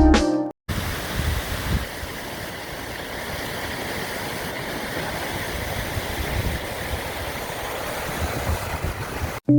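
Music cuts off about half a second in and gives way to a steady rush of flowing water.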